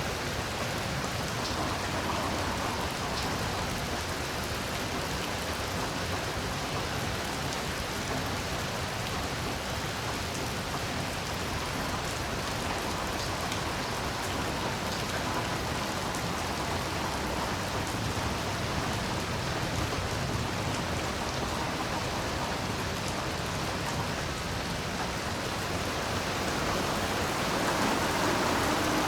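Heavy rain falling steadily as a dense, even hiss, with scattered single drops ticking through it. It grows a little louder near the end.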